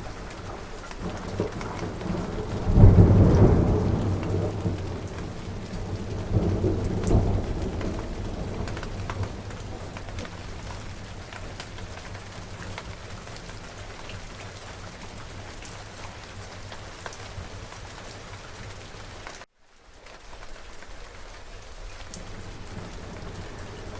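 Steady rain falling, with a loud clap of thunder about three seconds in that rolls away over the next few seconds and a second, weaker rumble shortly after; then rain alone. Near the end the sound cuts out for a moment and comes back.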